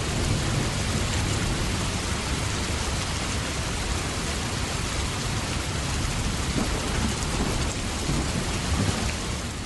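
Heavy rain pouring onto a wide sheet of muddy floodwater: a steady rushing hiss with a low rumble underneath.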